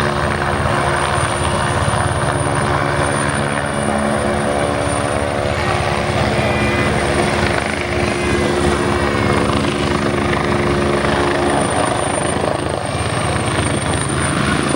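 Helicopter hovering, a continuous steady hum with a rapid chop and a thin high whine over it. The lower steady tones in the hum fade about twelve seconds in.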